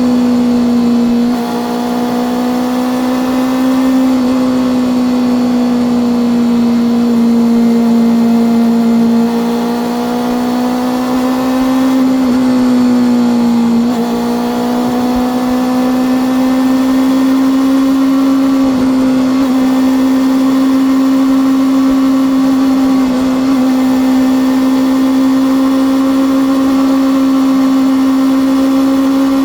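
Honda CB400SF's inline-four engine and exhaust running at steady high revs while riding, its pitch rising and falling gently with small throttle changes. The note drops sharply about 14 seconds in, then climbs back.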